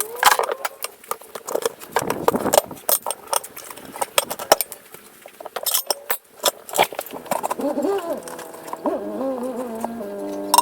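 Rapid, irregular metal clanks and clinks of tools being handled and knocked against the tractor rim and bead breaker. In the last few seconds a tune of held notes comes in, stepping down in pitch.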